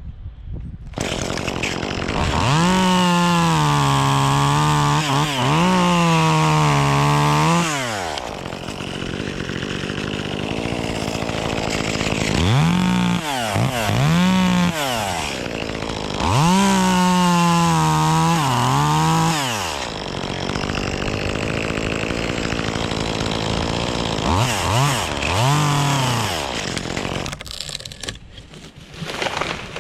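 Echo 2511T top-handle two-stroke chainsaw starting to rev about a second in. It runs at full throttle for several seconds, its pitch dipping slightly at times, and drops back to idle. Short revs and two more long full-throttle runs follow, then quick blips, and it stops near the end.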